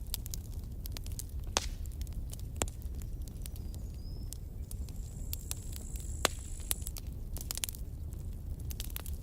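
Campfire burning: wood crackling with irregular sharp pops over a low, steady rumble of flame. A faint, high, thin whistle sounds for a couple of seconds past the middle.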